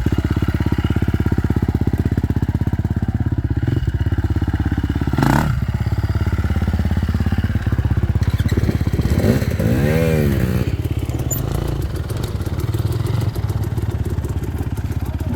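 Husqvarna TE 300 two-stroke dirt bike engine running at low revs on a rough trail. About five seconds in there is a single knock, and around nine to ten seconds the revs rise and fall.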